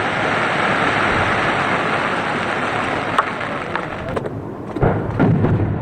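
A dense, steady hiss of heavy rain mixed with firework crackle, swelling early and easing off after about four seconds. Low firework booms break in about five seconds in.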